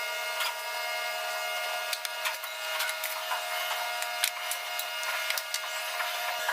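A woodworking machine running with a steady whine, with irregular clicks and knocks of wood being handled.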